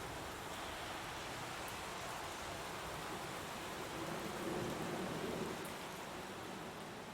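Heavy rain falling steadily, swelling a little about halfway through and easing slightly near the end.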